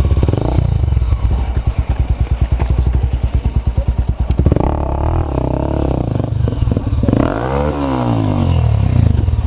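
Trail motorcycle engine running with an even pulsing beat at low revs. About four and a half seconds in it revs harder, and its pitch dips and climbs again near the end.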